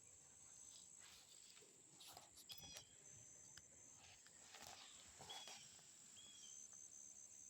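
Faint, near-silent outdoor ambience: a few short bird chirps and a steady high-pitched insect drone.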